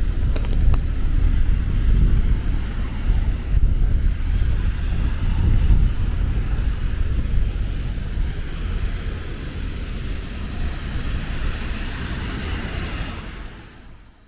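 Rainy city street: a low rumble of traffic and wind buffeting the microphone over a steady hiss, fading out near the end.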